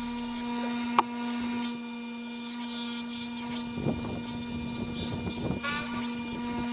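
Lapidary grinding wheel running with a steady motor hum while a rough stone is ground against it to round off its edges; the grinding hiss stops about half a second in, with a sharp click, and comes back after about a second, then stops again briefly near the end.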